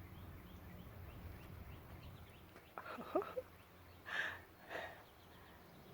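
Small songbirds calling faintly, a run of short high chirps, with two short harsh calls about four seconds in.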